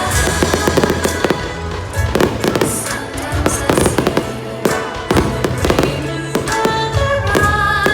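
Fireworks bursting in quick, irregular succession, with music playing underneath.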